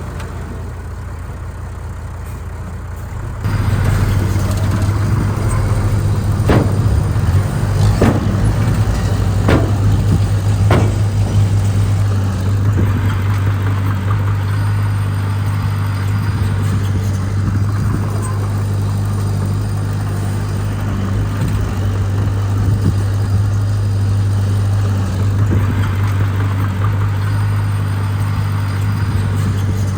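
Heavy diesel earthmoving machinery running steadily with a low engine drone. It gets abruptly louder about three and a half seconds in, and four sharp knocks sound between about six and eleven seconds in.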